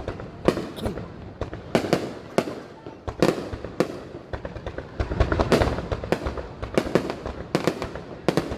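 Aerial fireworks display: shells bursting in quick, irregular succession, sharp bangs, with a denser run of bursts and low rumble about five seconds in.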